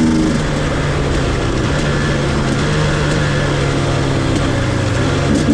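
Dirt bike engine running at fairly steady revs under a loud, even rush of wind and riding noise.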